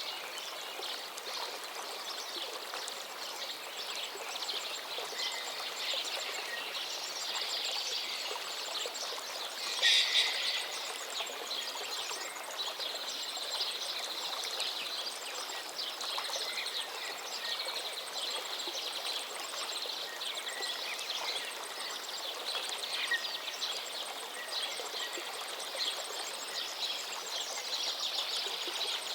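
A river flowing steadily, with several songbirds singing high over the water noise throughout, and a brief louder burst about ten seconds in.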